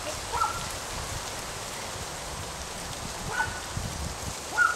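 Norrbottenspets puppies giving three short, high yips, the last one near the end the loudest, over a steady rustling hiss.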